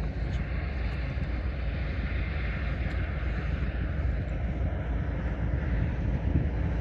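Steady low rumble of a running vehicle engine with a hiss over it, unchanging throughout.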